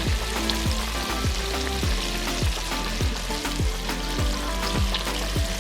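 Chicken pieces frying in hot oil in a frying pan, a steady sizzle, under background music with a regular kick-drum beat about every half second or so.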